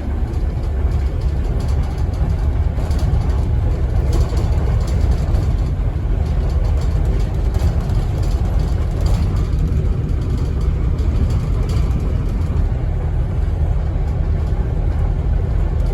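Scania N270UD double-decker bus heard from inside the passenger cabin: a steady low engine rumble with light rattles and clicks from the bodywork.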